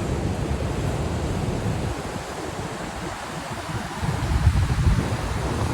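Storm surf breaking on the rocky shore in strong wind, with wind buffeting the microphone. The rush swells louder about four seconds in.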